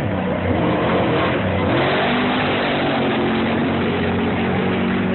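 Trophy truck engine accelerating hard, its pitch rising in the first second and then holding, with a loud rush of noise building about two seconds in.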